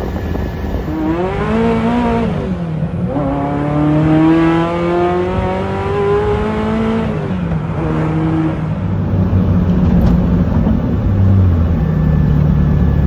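Ferrari F40's twin-turbo V8 heard from inside the cabin under acceleration. The revs climb, drop at a gear change about two and a half seconds in, then climb steadily again for several seconds before easing off into a steady run for the last few seconds.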